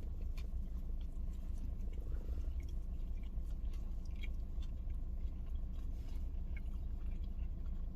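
A person chewing a mouthful of burger, with faint small wet clicks, over a steady low hum.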